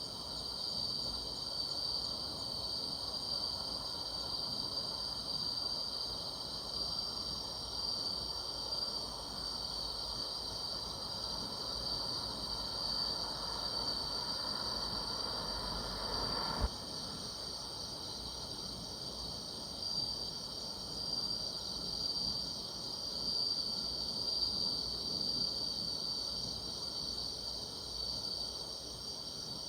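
A steady night chorus of crickets and other grass insects, a continuous high trill. A single short click sounds a little past the middle.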